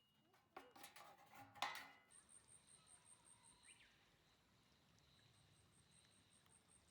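Near silence, with a faint high-pitched pulsing trill, about five pulses a second, starting about two seconds in.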